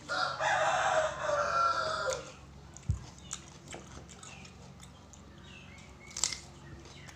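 A rooster crowing once, a call of about two seconds that trails off at the end, followed by a few faint knocks and clicks.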